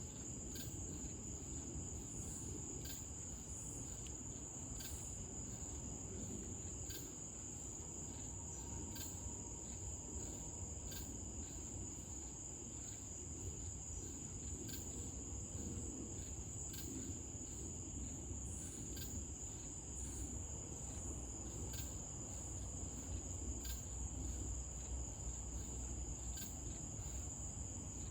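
Night insects trilling in a steady, unbroken high-pitched chorus, with faint regular ticks about once a second and a low steady rumble underneath.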